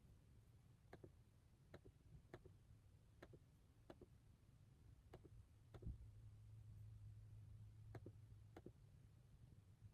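Faint, irregular clicks from a laptop in use, about one or two a second, over a low steady hum.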